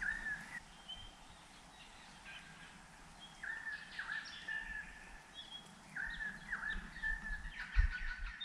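Birds calling in the bush: a whistled, swooping phrase repeated three times a few seconds apart, with fainter chirps between. A short low thump near the end.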